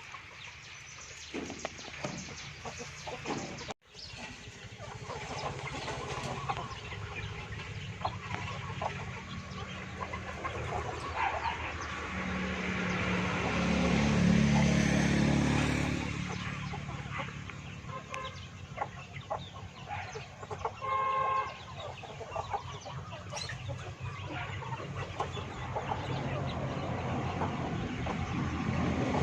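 Free-range chickens clucking and calling, with a rooster-like crow about two-thirds of the way through. A low rumble swells and fades in the middle.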